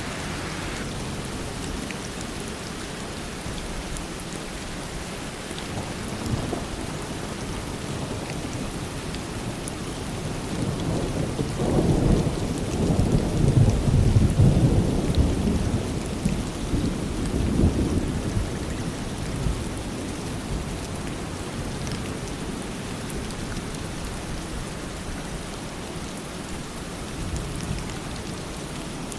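Steady rain falling, with a long roll of thunder that rumbles up about ten seconds in, is loudest around the middle and dies away by about twenty seconds.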